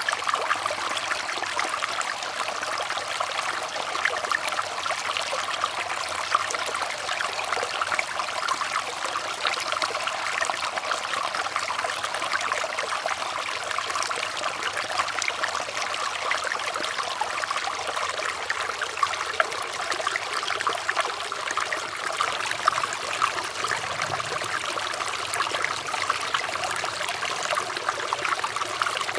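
Running water trickling and splashing steadily, like a small stream flowing over stones, with a dense patter of small splashes.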